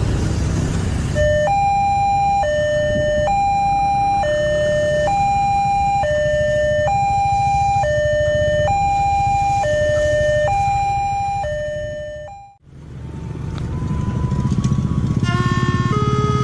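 Railway level-crossing warning alarm: an electronic two-tone signal alternating low-high, each tone held just under a second, over a low rumble. Near the end the sound cuts out abruptly and comes back with a quicker pattern of different tones.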